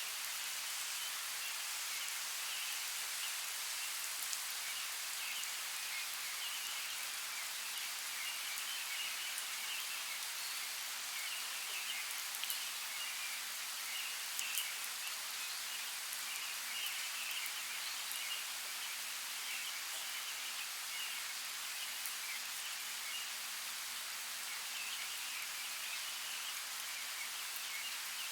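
Steady hiss of water in a natural soundscape, with scattered light ticks and faint flickering chirps.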